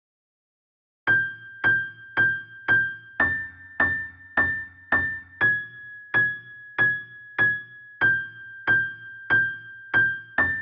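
Electronic keyboard playing a single high note struck about twice a second, moving between two neighbouring pitches, G6 and A6. The notes start about a second in, each decaying quickly.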